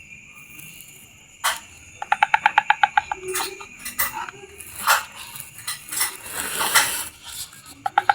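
Young dedes birds calling for their mother: a quick run of about a dozen high, evenly spaced chirps about two seconds in, followed by scattered sharp chirps and clicks through the rest.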